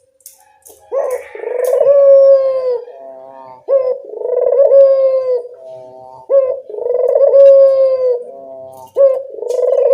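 Barbary dove (burung puter) cooing: a loud call repeated about every 2.7 seconds, each phrase a short sharp note, a long level coo, then a few shorter notes.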